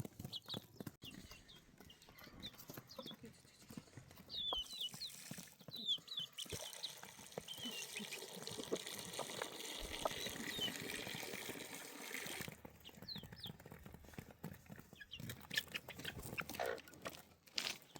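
Short high chirping calls from birds, with scattered clicks, and a steady rush of flowing water through the middle stretch.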